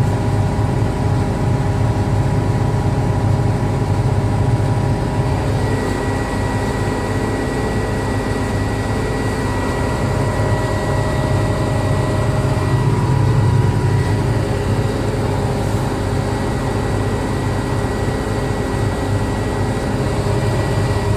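Case IH 7230 Axial-Flow combine's diesel engine running steadily at idle. A thin, steady high-pitched tone joins about five seconds in.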